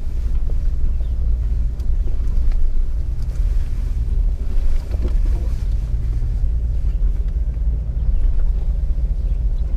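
Jeep engine running in a steady low rumble while the vehicle crawls over a rough off-road trail, with wind buffeting the microphone and a few faint knocks.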